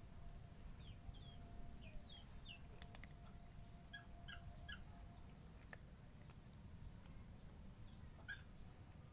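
Near silence with faint, short, high bird chirps scattered throughout over a low background rumble, plus a couple of soft clicks.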